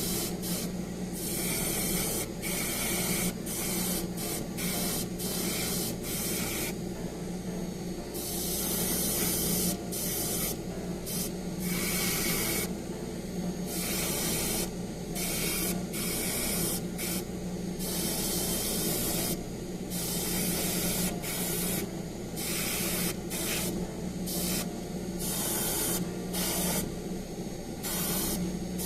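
Paint spraying onto model kit parts, the hiss switching on and off in short bursts every second or two, with a steady low hum underneath.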